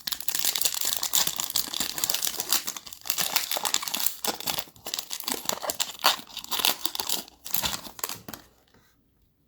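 A plastic trading-card pack wrapper being crinkled and torn open by hand: dense, loud crackling that stops abruptly near the end.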